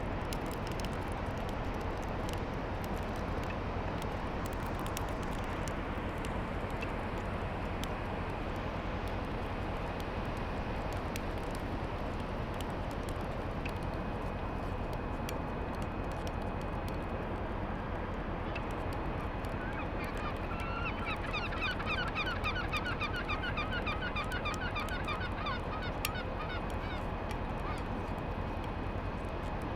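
Steady rush of wind and surf, with a bird calling in a fast run of short repeated notes for several seconds about two-thirds of the way in.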